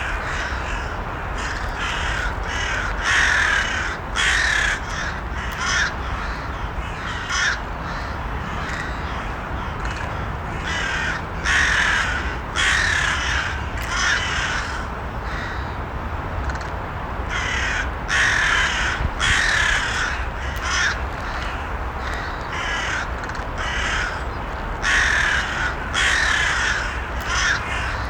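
Crows cawing over and over, harsh calls following one another about every second, some in quick runs, over a steady low background rumble.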